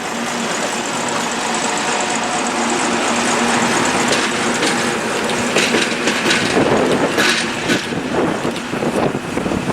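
T448p diesel shunting locomotive running light engine along the track, its engine a steady drone that grows louder as it approaches, with uneven rattling noise joining over the last few seconds.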